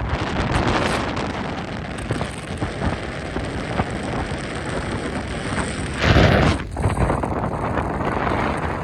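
Strong wind of about 40 miles an hour blowing hard across the microphone as a steady rush of noise, with a louder gust about six seconds in.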